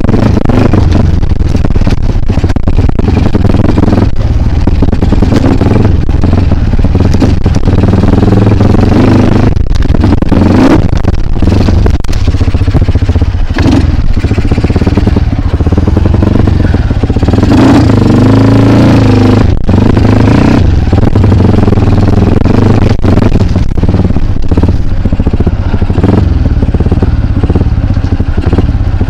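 Kawasaki KLX trail bike engine running loud and close, its pitch rising and falling as the throttle is opened and closed, with clattering throughout.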